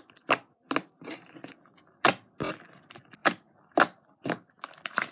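Sticky homemade slime being kneaded and pulled by hand, making sharp wet pops and clicks about twice a second. The slime is still sticky, not yet fully activated by its liquid starch.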